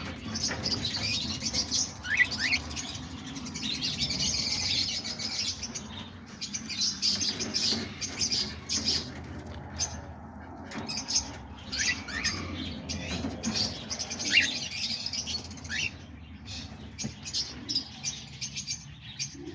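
A flock of cockatiels chirping and chattering, with a few short rising calls and scattered clicks and rustles.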